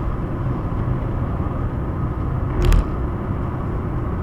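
Steady road and engine noise inside a moving car's cabin, with a single short thump about two-thirds of the way through.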